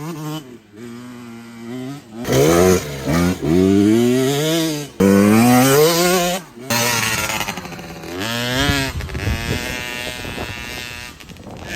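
Dirt bike engines revving, their pitch climbing in repeated bursts, with several abrupt changes from one engine sound to the next.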